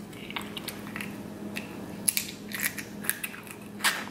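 Close-up eating sounds: a person biting and chewing king crab leg meat in Cajun butter sauce, with short wet clicks and smacks at irregular intervals. A faint steady hum runs underneath.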